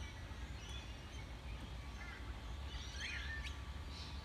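Birds calling now and then, short chirps and quick rising whistles, most of them in the second half, over a steady low background rumble.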